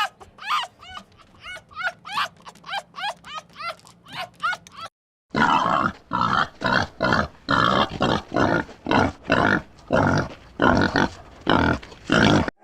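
Animal calls: a run of quick calls rising in pitch, about three a second, then after a brief break a series of louder, harsher calls about two a second.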